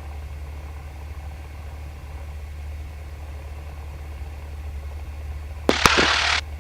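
Cessna 172's piston engine idling with a steady low drone while the plane holds short of the runway. Near the end, a short burst of hiss with a click breaks in briefly.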